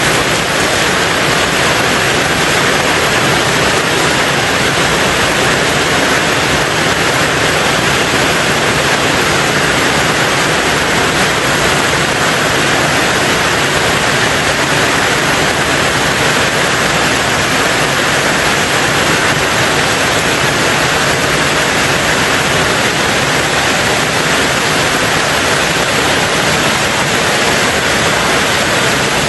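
Heavy rain on a tin roof, a dense, steady hiss with no single drops standing out.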